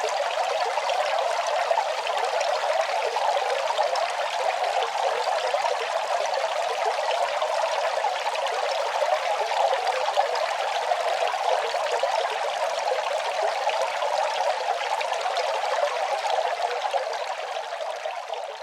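Running water, a steady even splashing flow that begins to fade near the end.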